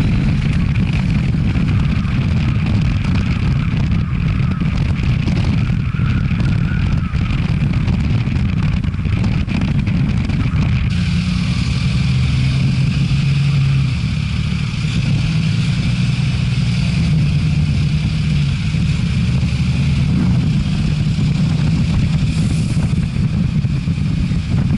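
Motorcycle engine running under way, its pitch shifting about halfway through as the speed changes, with wind rushing over a helmet-mounted microphone.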